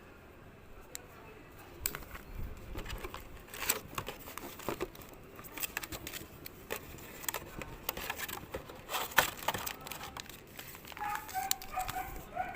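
Crinkling and rustling of foil trading-card packs being handled and taken out of their box, with irregular clicks and crackles starting about two seconds in.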